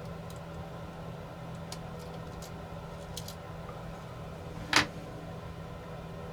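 Small clicks of hand tools and parts being worked on a drone's body, with one sharper click about three-quarters of the way through, over a steady low hum.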